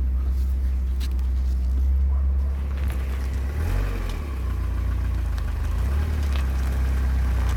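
1994 Mazda Miata's 1.8-litre four-cylinder engine and exhaust running steadily at low speed, with a few faint ticks over the drone.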